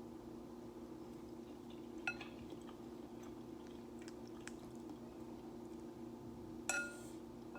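Quiet eating: faint chewing and small clicks, with a utensil clinking against a bowl twice, about two seconds in and again, ringing and louder, near the end. A steady low hum runs underneath.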